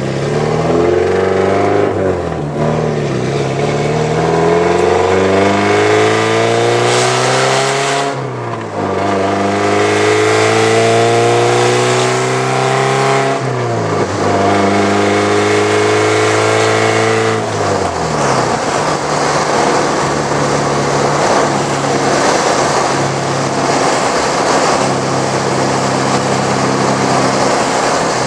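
Straight-piped 1983 Porsche 944's inline-four, with the catalytic converter and muffler cut off, accelerating through the gears. The note climbs steadily, drops at each of three upshifts, then about eighteen seconds in falls back to a steadier, rougher drone.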